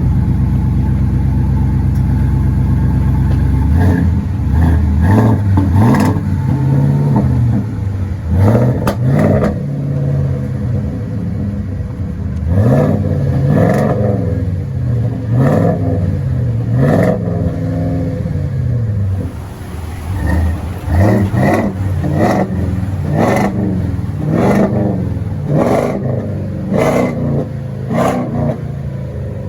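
2020 Ford F-250's 7.3-litre gas V8 through a Flowmaster 50 Series true dual exhaust. It idles for about four seconds, then is revved in repeated quick throttle blips, the note rising and falling about every second and a half.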